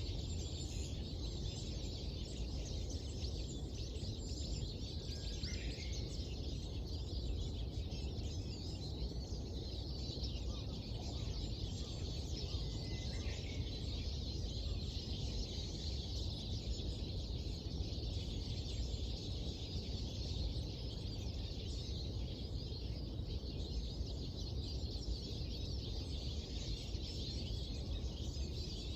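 Many small birds chirping and twittering in a dense, continuous dawn chorus over a steady low background rumble. A couple of brief, clearer calls stand out about five and thirteen seconds in.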